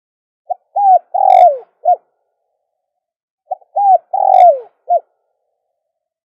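Spotted dove cooing: two phrases about three seconds apart, each a short note, a hooked coo, a long loud coo that falls in pitch, and a short closing note.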